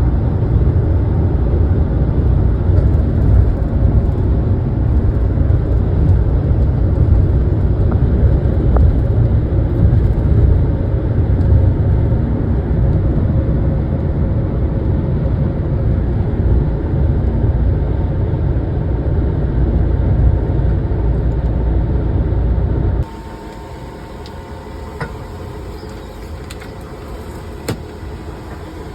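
Steady low road-and-engine rumble inside a cargo van on the move. About 23 s in it cuts off suddenly to a much quieter steady hum with a couple of faint clicks.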